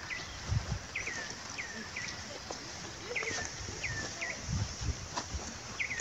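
A bird calling over and over: short notes that slide downward, often in quick pairs, about every half second. A few low thumps come through near the start and again about four and a half seconds in.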